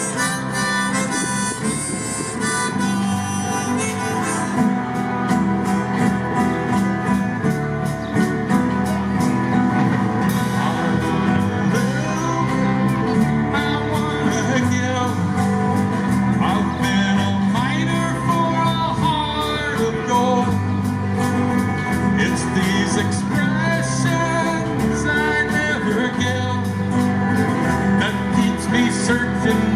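A live band playing an instrumental passage with a steady beat, held notes and some bending melody lines.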